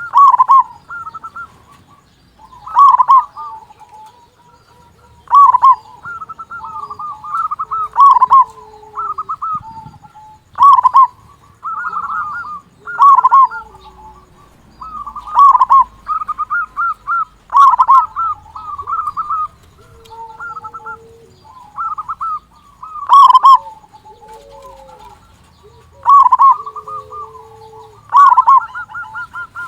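Zebra dove (perkutut) singing: repeated phrases of rapid trilled coos, with a loud phrase every two to three seconds. Fainter, lower cooing notes sound between the phrases.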